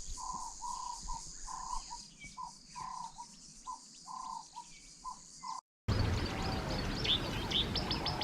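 A bird repeats a short low call about twice a second over a steady high insect drone. After a break about six seconds in, a small bird gives a quick run of high chirps that drop in pitch toward the end.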